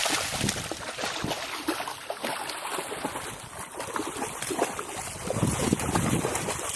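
Water splashing and sloshing in uneven strokes, with wind noise on the microphone.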